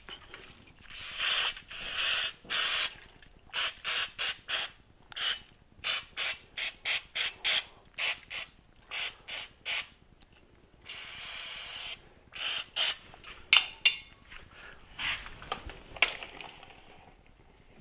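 Short, repeated hissing spray bursts, with one longer burst about eleven seconds in, as cleaner is sprayed into a transmission case to flush out old oil thick with powdered metal from the failed transmission.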